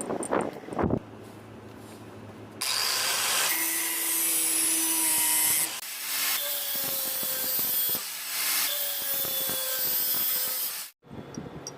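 A few rubbing strokes in the first second, then an electric power tool working the metal with a loud hissing grind from about two and a half seconds in. It eases off briefly twice and cuts out abruptly about a second before the end.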